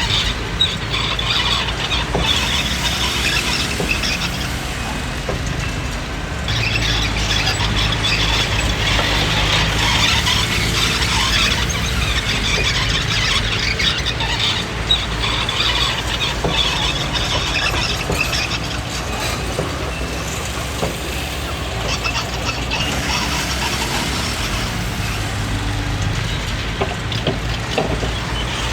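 Komatsu D20P crawler bulldozer working, its diesel engine running steadily under a high-pitched squeal and scattered clanks from the tracks and undercarriage.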